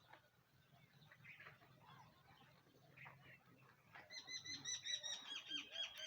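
Babbler giving a fast run of short, high chirps, about eight a second, starting about four seconds in and dropping slightly in pitch toward the end, over faint rustling.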